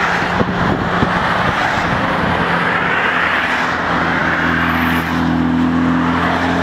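Highway traffic rushing past, with a vehicle's engine hum coming in about four seconds in and holding steady.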